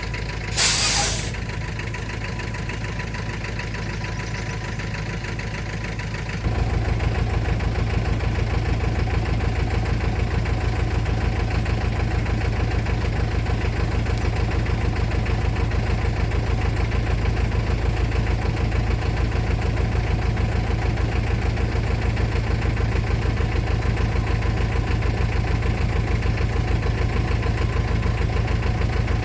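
Truck engine idling, with a short air hiss about a second in. About six and a half seconds in the engine note steps up and it runs louder and steady.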